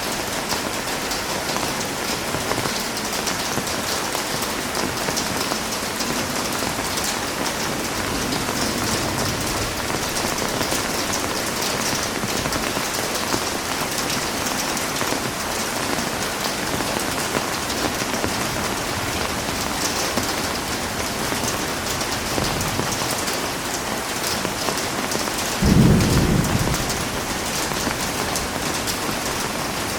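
Heavy rain falling steadily in an even hiss. Near the end, a single low burst of thunder stands out above the rain and dies away over about a second.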